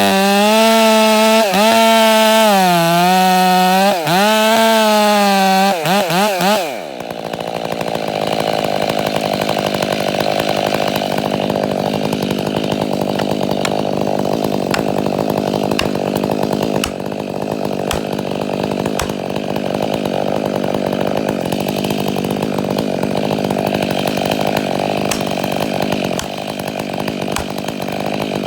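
Chainsaw at full throttle in a cut, its pitch dipping and recovering as the chain bogs under load. About six and a half seconds in the throttle is let off with a few quick blips, and a quieter, steadier chainsaw sound carries on.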